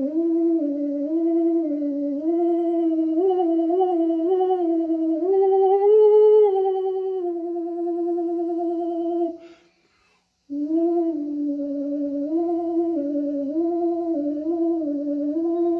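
A single voice humming a slow, wordless tune, the pitch stepping up and down in small slides. It breaks off once for a breath a little past the middle, then goes on.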